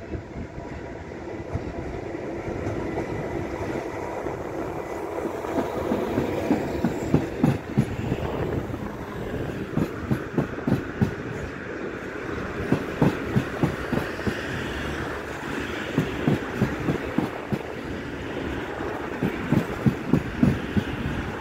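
Regional passenger train rolling out of the station over points and rail joints: a steady rumble with repeated groups of wheel clacks from about six seconds in.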